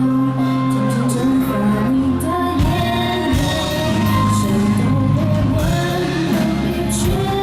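Live rock band playing a song, with a singer over sustained bass and guitar chords and drum cymbal hits, in a large hall.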